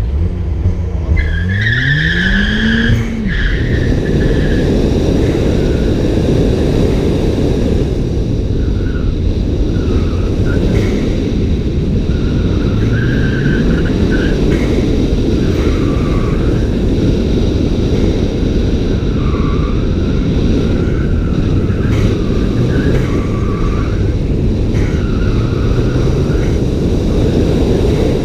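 A 2014 Ford Fiesta ST's turbocharged 1.6-litre four-cylinder, fitted with a Cobb cat-back exhaust, accelerating hard from the start of an autocross run. Its pitch rises through first gear to a shift about three seconds in. The engine then runs hard under steady road noise, and the tyres squeal briefly again and again through the cones.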